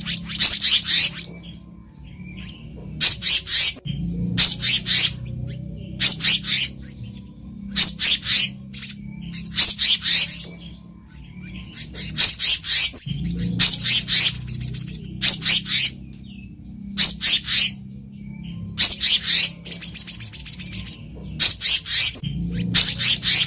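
Black-naped monarch calling: short bursts of rapid, high-pitched notes, repeated about every one and a half seconds, over a faint steady low hum.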